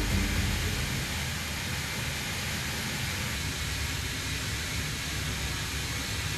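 Steady jet aircraft noise: an even hiss over a low rumble.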